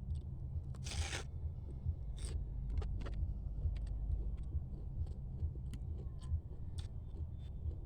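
Eating mud crab: scattered small clicks and smacks of chewing and picking at crab shell, with one louder crunch about a second in, over a steady low hum.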